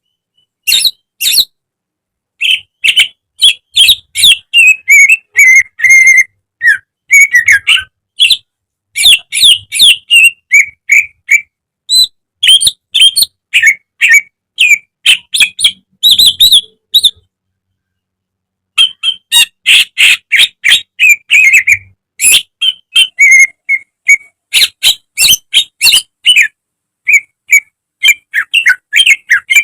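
Green leafbird (cucak ijo) singing: fast runs of sharp chirps and quick down-slurred whistles in loud bursts, with two short pauses.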